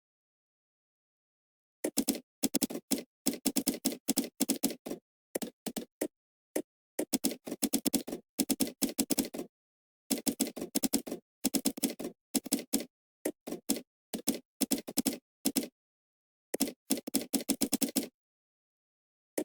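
Typing on a computer keyboard in quick bursts of keystrokes, each run a second or so long, broken by short pauses.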